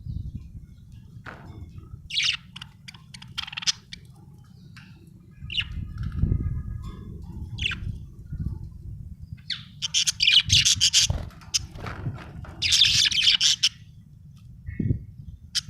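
Budgerigar chirping and chattering in three loud bursts of rapid, scratchy high chirps with quieter single chirps between them, over a low background rumble.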